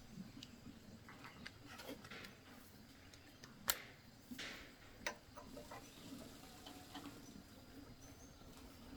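Scattered light clicks and taps at an uneven pace, the sharpest about a third of the way in and another just past halfway, over a faint steady hum.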